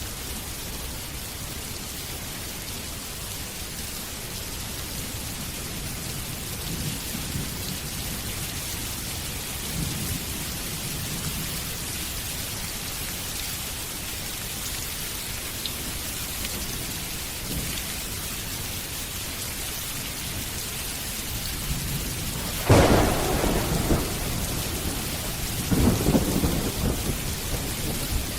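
Steady rain hiss with thunder: soft low rumbles through the first part, then a sharp, loud thunderclap about two-thirds of the way in, followed by further rolling rumbles near the end.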